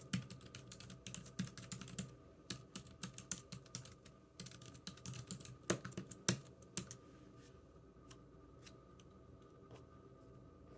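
Typing on a computer keyboard: a quick run of key clicks with a couple of louder strokes, thinning out about seven seconds in to a few scattered clicks.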